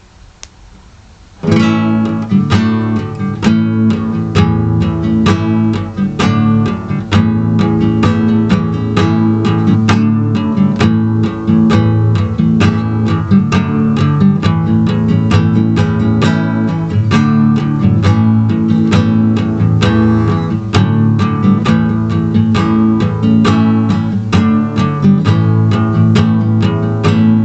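Strummed acoustic guitar playing an instrumental song intro, with evenly spaced strums; it starts suddenly about a second and a half in.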